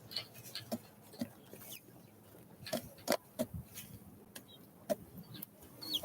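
Small wild birds at a feeder: irregular light clicks and taps of beaks and feet on the feeder and seed, with a few short high chirps.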